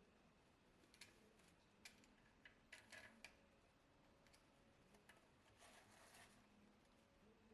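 Near silence, with a few faint, scattered short clicks and taps.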